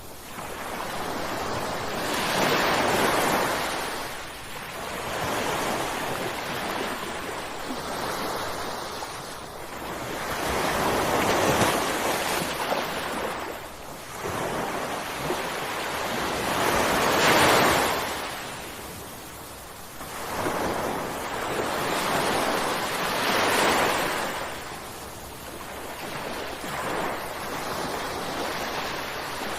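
Ocean waves breaking and washing in, a rushing surge of surf that swells and fades every few seconds, some waves louder than others.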